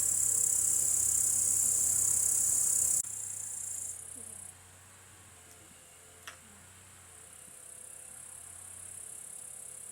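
Crickets chirring in a continuous high-pitched drone, loud at first, then dropping suddenly about three seconds in and again a second and a half later before slowly building back up.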